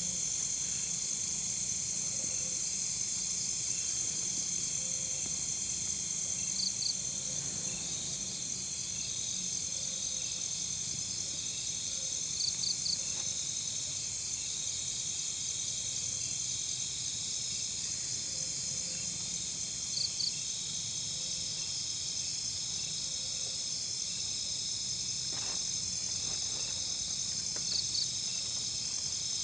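Night-time insect chorus: a steady, high-pitched trilling drone, with a short double or triple chirp every several seconds.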